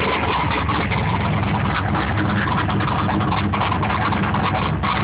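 Ford Thunderbird Super Coupe's supercharged 3.8-litre V6 idling steadily.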